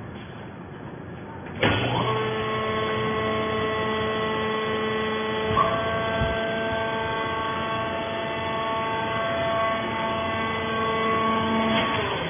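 Abaca fiber baler's machinery starting suddenly and running with a steady, pitched electric-motor hum, with a brief jolt partway through, then winding down near the end.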